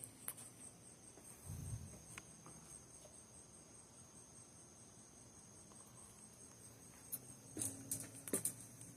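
Night insects, crickets, trilling steadily at a high pitch, faint. A soft low thump comes about a second and a half in, and a few light clicks sound near the end.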